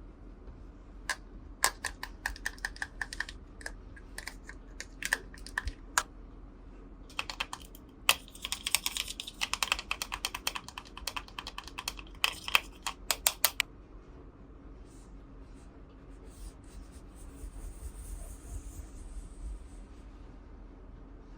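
Small hard plastic toy pieces clicking and tapping as they are handled, a few sharp clicks at a time at first, then a dense rapid run of clicks for several seconds, followed by a faint soft hiss.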